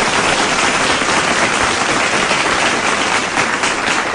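Applause: many hands clapping in a steady, dense patter for the whole stretch.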